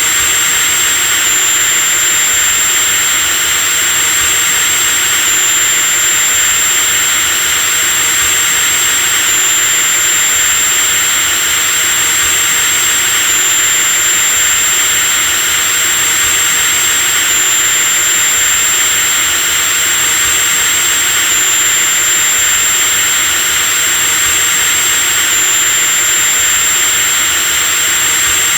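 Electric drill running continuously at constant speed: a steady motor hiss with a high whine over it, the whine shifting slightly about every four seconds.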